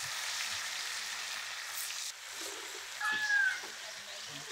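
Banana-leaf-wrapped fish parcels frying in coconut oil in a wok, a steady sizzle that drops in level about two seconds in. About three seconds in, a short high call rises and falls over the sizzle.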